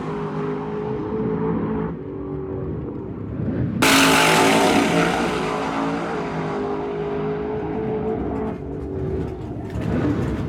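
Drag race car engine running hard at high revs, a steady drone that comes in suddenly and loud about four seconds in, then gradually fades.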